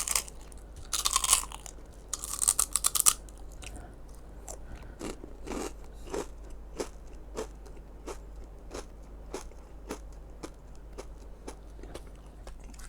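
Crunching and chewing of crispy salted egg fish skin snack close to the microphone. There are loud crunching bites in the first three seconds, then steady chewing with crisp crunches about twice a second.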